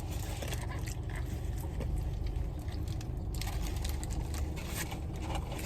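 A person chewing fast food close to the microphone: many small, irregular crunchy clicks over a steady low hum.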